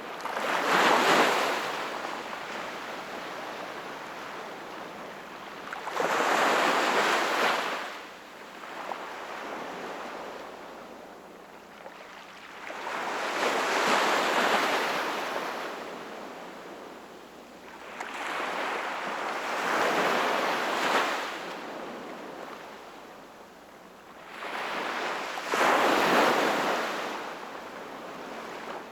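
Sea waves breaking and washing in, five surges about six seconds apart, each swelling and then fading away.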